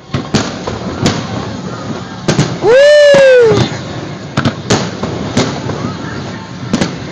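Aerial fireworks bursting, sharp bangs every second or so over a steady background of crowd and crackle. About three seconds in, a very loud one-second whoop rises and then falls in pitch.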